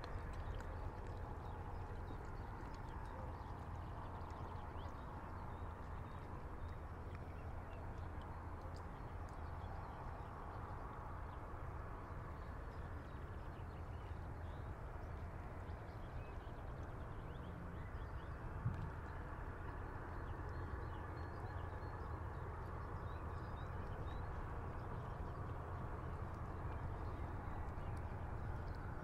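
River water lapping and splashing against a stone breakwater, over a steady low rumble, with one sharp knock about two-thirds of the way through.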